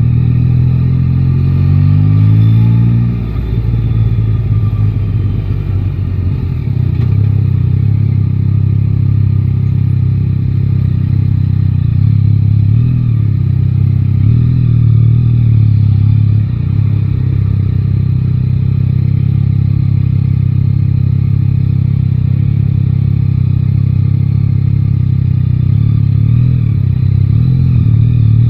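Yamaha Tracer 9 GT's three-cylinder engine accelerating, its pitch rising for about three seconds. After a brief dip it runs at a steady pitch.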